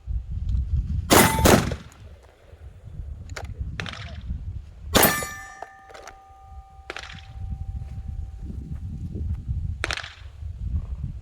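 A string of handgun shots: about six sharp reports spread over the stretch, the loudest pair about a second in. Some are followed by a metallic clang that rings on for a second or two.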